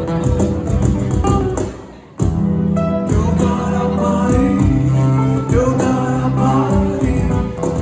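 Live rock band playing a song with guitars, bass and singing. The music drops away for a moment about two seconds in, then the whole band comes back in at full level.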